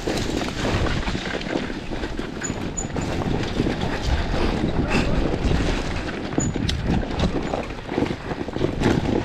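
Two-stroke enduro dirt bike going slowly down a steep rutted hill, its engine low and steady under heavy wind noise on the microphone, with a few knocks from the bike over rough ground.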